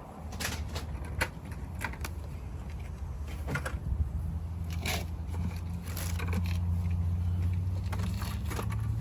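A steady low motor hum, growing louder about halfway through, with scattered clicks and scrapes of things being handled.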